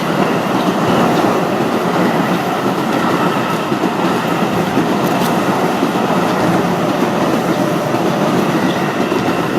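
Keio Line train passing at the level crossing, its wheels rumbling on the rails, steady and loud.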